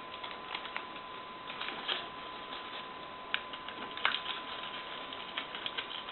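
Paper being folded and tucked by hand: scattered light crinkles and clicks, the sharpest about three and four seconds in, over a faint steady thin whine.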